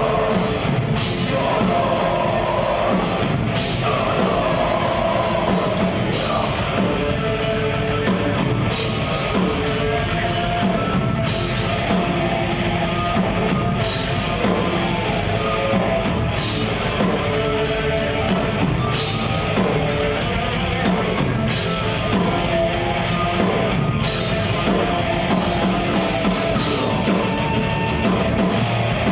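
Metal band playing live: heavy, dense music with a full drum kit driving it. The cymbal crashes come and go in a regular pattern every couple of seconds.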